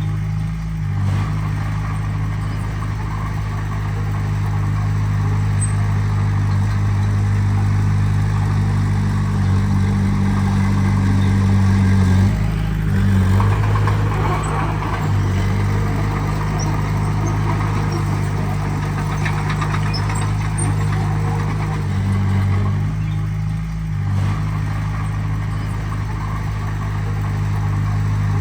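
Heavy earthmoving machine's diesel engine running steadily, its note shifting briefly twice.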